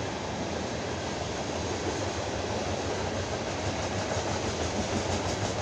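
Norfolk Southern freight train of ethanol tank cars rolling steadily past a grade crossing, its wheels rumbling on the rails, growing slightly louder toward the end.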